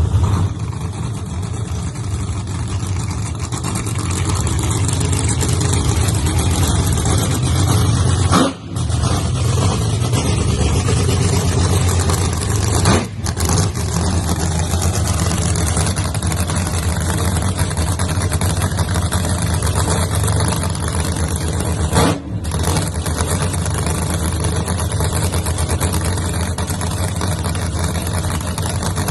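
Funny car drag-racing engine running at idle, a loud, steady rumble that dips briefly three times.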